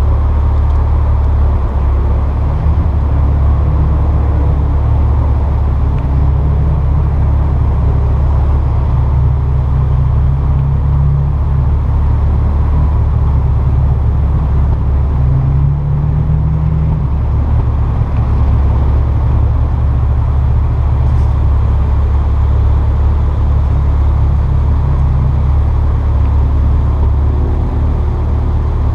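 2002 Nissan Maxima's 3.5 L VQ35DE V6 idling steadily through an exhaust with equal-length headers, stock catalytic converter and a straight pipe in place of the resonator, a deep low drone with no revving.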